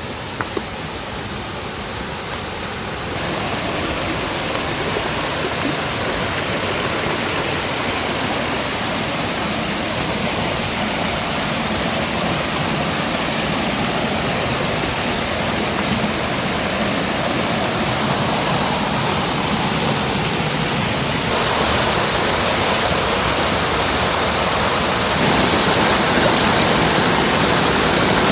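Mountain valley stream running: steady rushing water that gets louder in steps, once about three seconds in and again near the end.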